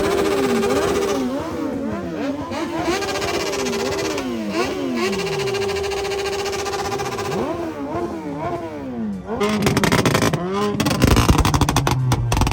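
Several motorcycle engines revving, overlapping. Their pitch climbs and drops in quick blips, with stretches held at high revs. About two-thirds of the way in it gets louder, with rapid crackling and a low engine note underneath.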